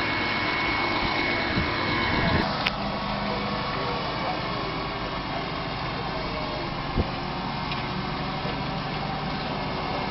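Tractor engines running steadily, with a change in engine note about two and a half seconds in and a single short knock near the middle.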